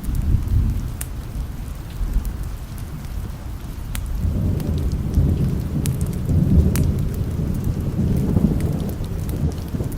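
Thunder rumbling low over steady rain, the rumble swelling and rolling on for several seconds about halfway through. Scattered sharp ticks sound above it.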